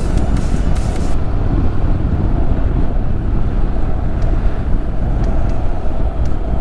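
Motorcycle on the move: steady wind rush on the microphone over the low rumble of the engine and road.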